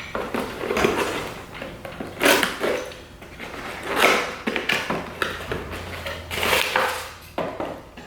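Cardboard boxes of exhaust parts being handled and shifted: a string of irregular rustles and knocks.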